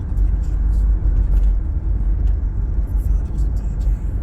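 Steady low rumble of wind buffeting the microphone on a moving bicycle, with scattered faint clicks.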